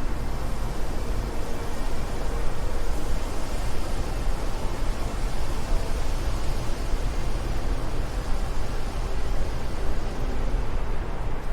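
Wind blowing steadily, a deep low rumble under a hiss, its loudness flickering constantly without letting up.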